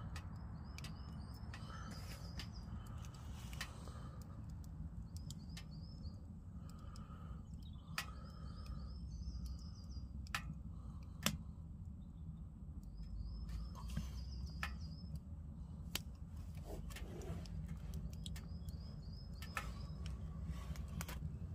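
A small bird chirping in short, quick high phrases every few seconds, over a steady low rumble, with scattered sharp clicks.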